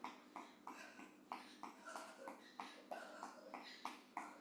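Quick marching footsteps of running shoes on the floor, about three steps a second.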